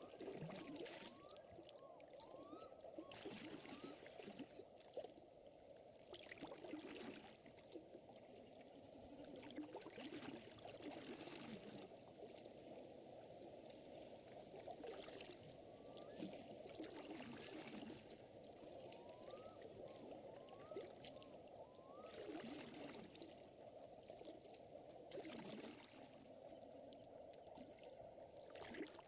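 Quiet lakeside water ambience: water lapping and trickling steadily, with soft wider swells every few seconds. A few short rising chirps come at the start and again about two-thirds of the way through.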